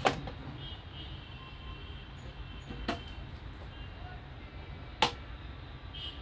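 Steady blowing hum of a hot-air rework gun heating an ECU circuit board to lift off an IC, with three sharp tool clicks: one at the start, one about three seconds in and one about five seconds in.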